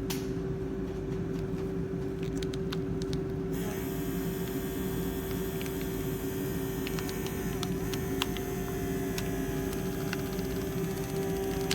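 A steady electrical hum at one low pitch, with a fainter higher tone that slowly falls in pitch in the second half and a few faint ticks.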